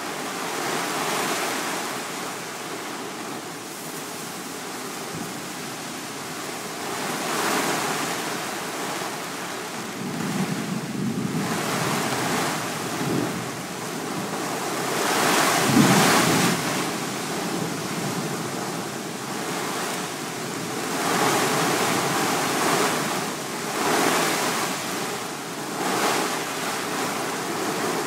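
Strong thunderstorm wind gusting: a steady rushing that swells and eases every few seconds, loudest about halfway through.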